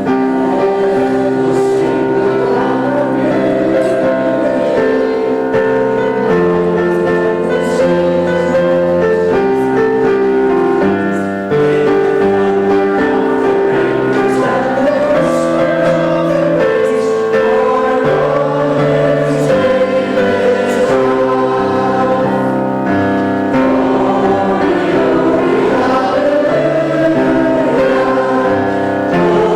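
Congregation singing a hymn with instrumental accompaniment, many voices in unison holding each note of the tune.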